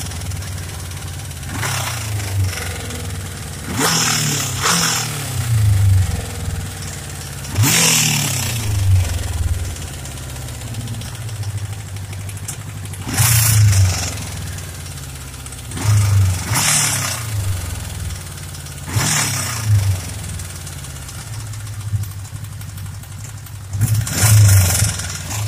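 Suzuki GSX600F Katana's inline-four engine idling, revved in short throttle blips every few seconds, with a knock in the engine. The owner judges the knock to come from the cylinder head: clicky and higher-pitched, not like the crankshaft, possibly valves due for adjustment or worn camshaft journals.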